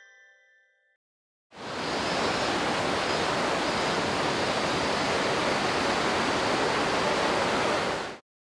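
Steady rush of flowing stream water, fading in about a second and a half in and cutting off sharply near the end.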